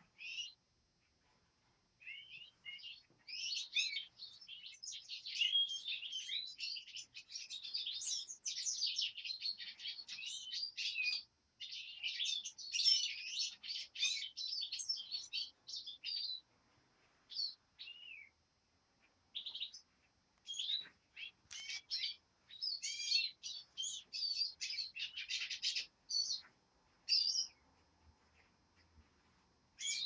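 Wild birds singing together, a dense chorus of overlapping high chirps and twittering trills. It thickens a couple of seconds in, breaks off about halfway, then comes back in shorter, scattered bursts of song.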